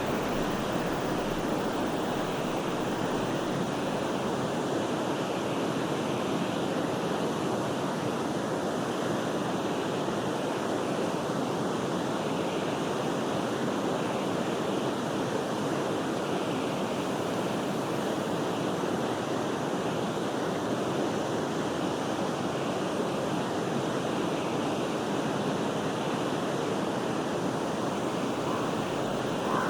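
Forest river flowing, a steady even rush of water.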